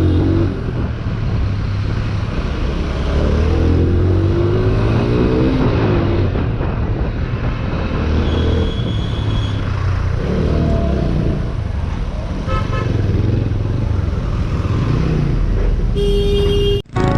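Road traffic heard from a moving motorcycle: engine running with the pitch rising and falling, and vehicle horns honking a few times, including about halfway through and near the end.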